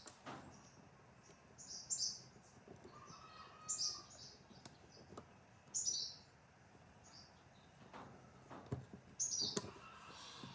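A small bird chirping: short, high, falling chirps repeated about every two seconds. A few sharp knocks come in between, the loudest near the end.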